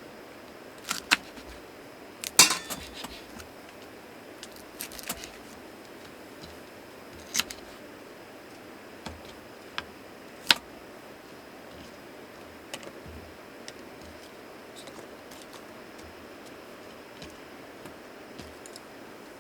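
Scattered clicks and clinks of small hard objects being handled, a dozen or so spread irregularly, the loudest about two and a half seconds in and again about ten seconds in.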